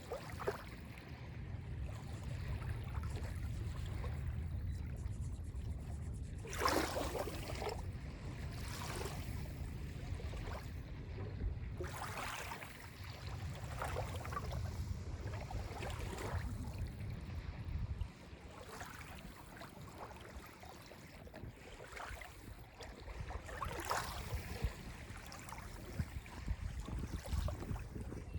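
Small waves lapping and breaking on the beach of Lake Ontario, a wash of water every two to three seconds, the loudest about a quarter of the way in. A low rumble runs underneath and drops away about two thirds of the way through.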